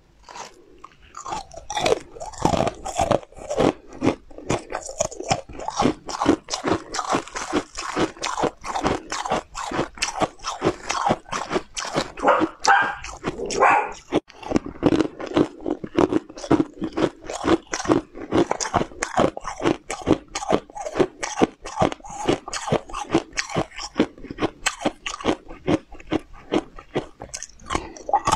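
A person biting and chewing crunchy food, close-miked: a fast, steady run of sharp crunches, several a second.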